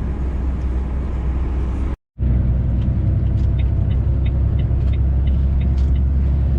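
Steady low drone of a truck's engine and road noise heard inside the moving cab. The sound cuts out for a moment about two seconds in, then returns, with faint regular ticking over it for a few seconds.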